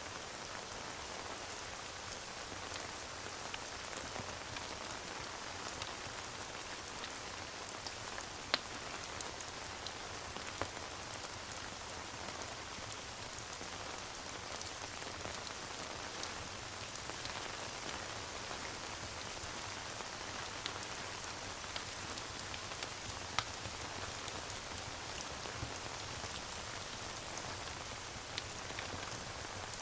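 Steady rain ambience: an even hiss of rainfall, with a few sharp pops from a crackling fireplace mixed in.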